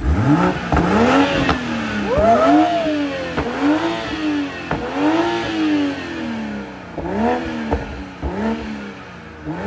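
Toyota GR Supra MK5 engine revved while parked, about seven blips of the throttle, each one climbing quickly and dropping back toward idle. It is heard at the tailpipes and is still on its stock exhaust.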